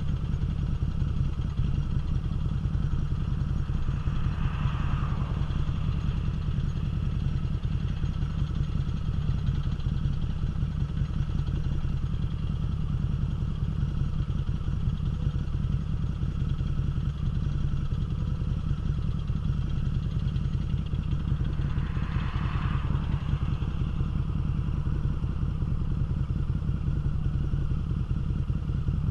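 Harley-Davidson V-twin motorcycle engine idling steadily with the bike standing still, a low, even pulsing rumble.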